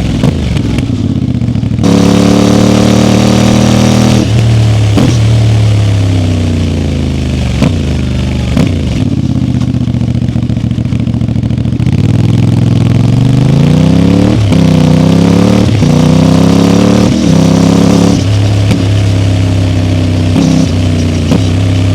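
CFMoto 450MT motorcycle's parallel-twin engine under way, its revs climbing and then dropping sharply again and again as the rider accelerates and shifts gears, with a longer spell of lower, steadier revs near the middle.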